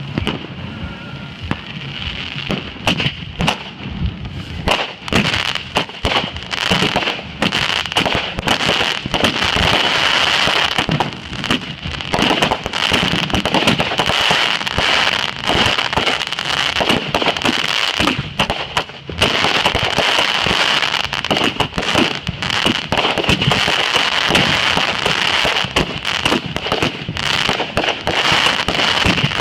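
Fireworks going off in a dense, rapid volley of pops and crackles over a steady hiss, with a brief lull about two-thirds of the way through.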